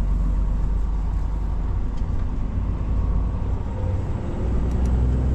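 Lorry's diesel engine running, heard from inside the cab as a steady low drone that grows louder about four and a half seconds in.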